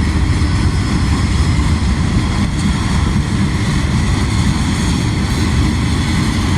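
CSX freight train rolling past, a loud steady rumble of the diesel locomotive and the wheels on the rails as the train picks up speed.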